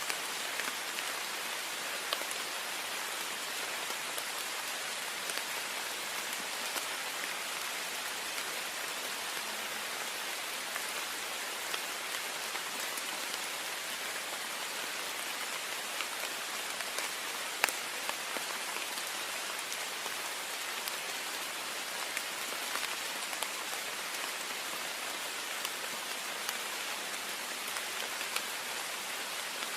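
Heavy rain falling steadily on a window: an even hiss of rain with many individual drops ticking on the glass, one sharper tick about two-thirds of the way through.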